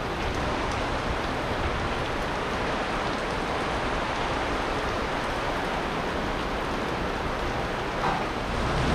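Torrential rain pouring down in a steady hiss.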